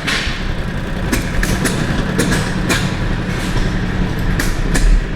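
Antique gas engines running: a steady low rumble with irregular sharp pops.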